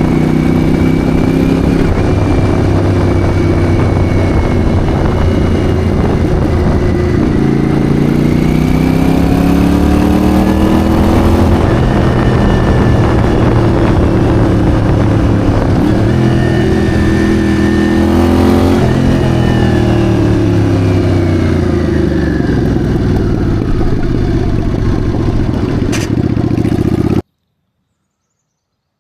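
Yamaha Virago bobber's V-twin engine running under way, its pitch rising and falling as the throttle opens and closes. The sound cuts off suddenly near the end.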